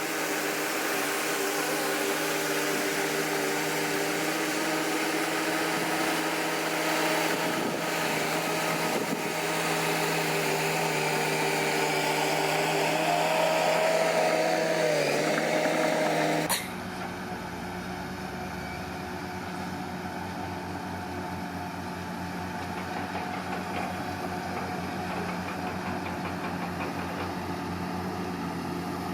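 Komatsu D41P bulldozer's diesel engine running steadily, its pitch sagging briefly under load about fifteen seconds in. About sixteen seconds in the sound cuts abruptly to a quieter, lower steady engine drone.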